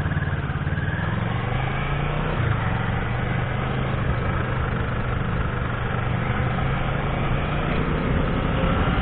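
Kawasaki ER-6n's parallel-twin engine running steadily as the motorcycle pulls away and rides on, its note dropping a step about two and a half seconds in.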